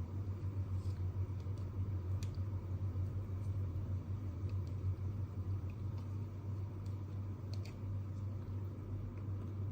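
Steady low hum of room background noise, with a few faint small clicks scattered through it.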